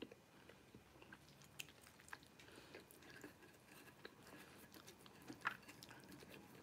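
Faint chewing of a mouthful of beef stir-fry noodles, with a few soft clicks along the way.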